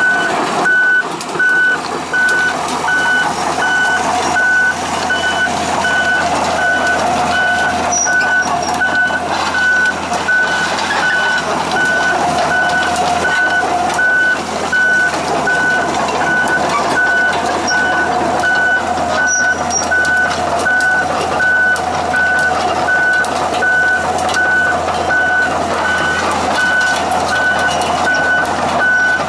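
Komatsu PC200LC-6 excavator's travel alarm beeping at an even pace over its running diesel engine.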